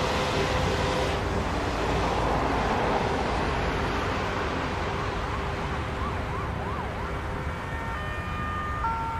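Jet airliner engine noise slowly fading as the aircraft moves away. Through the middle a siren yelps rapidly up and down in pitch, followed near the end by a few short steady tones.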